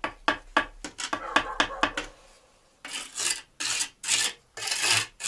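A bricklaying trowel tapping and scraping on brick and adhesive: a quick run of short scrapes and taps, then after a short pause about five long rasping strokes.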